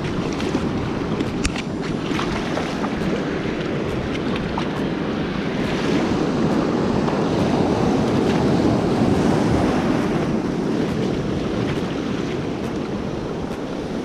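Surf washing onto the beach with wind buffeting the microphone, a steady rushing that swells louder in the middle as a wave breaks and then eases off.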